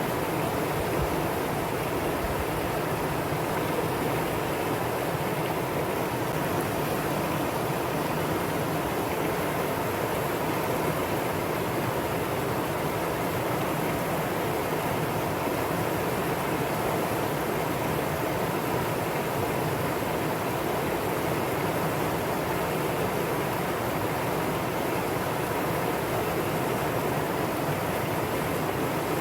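Mountain valley stream rushing steadily over rocks, an even unbroken sound of flowing water.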